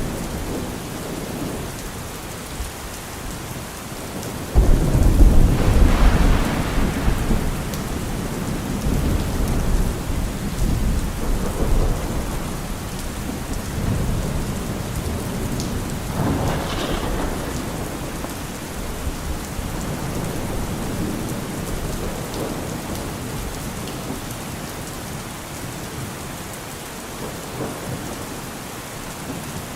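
Steady heavy rain with thunder: a loud thunderclap breaks about four and a half seconds in and rumbles away over several seconds, and a second, weaker roll of thunder comes about halfway through.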